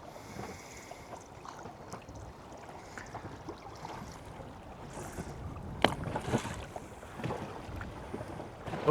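Water and wind around a small inflatable boat riding at anchor in a running tide, a steady low wash with wind noise on the microphone. A few light knocks come around the middle, the sharpest about six seconds in.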